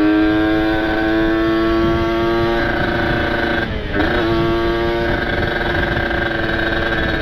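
Kawasaki Ninja RR's ported two-stroke single with an aftermarket exhaust, running hard under way. Its high, buzzy note climbs slowly, breaks and dips briefly about three and a half seconds in at a gear change, then holds steady, over a low rumble of wind and road.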